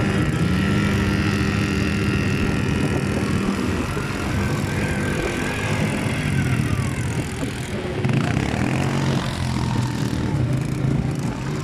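Motorbike engine running, its note holding steady for a few seconds and then shifting in pitch and settling lower in the second half.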